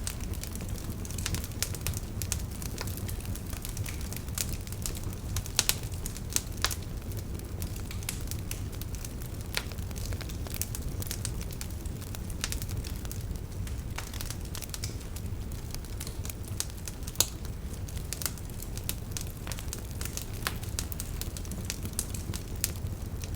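Campfire crackling, with constant small sharp pops and a few louder snaps, over a steady low rumble.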